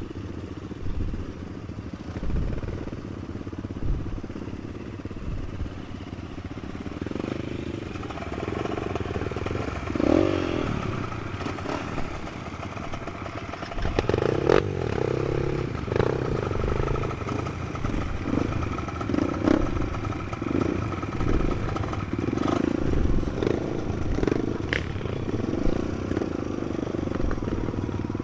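Trail motorcycle engine running under uneven throttle on a rough track, with clattering knocks from the bike. It gets louder and more uneven about halfway through.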